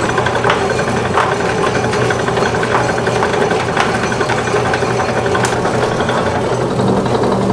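A machine running steadily with a low hum, with a few scattered sharp clicks.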